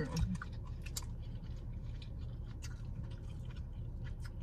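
People chewing breakfast pizza, with scattered wet mouth clicks and smacks, over a steady low hum inside a car.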